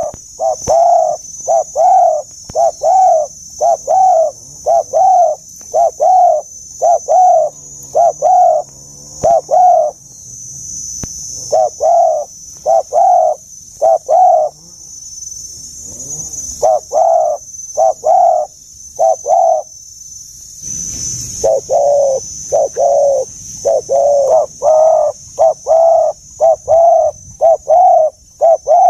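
Spotted dove cooing: a long run of short, deep coo notes at a steady beat of about one and a half a second, broken by a few short pauses. A steady high hiss runs underneath.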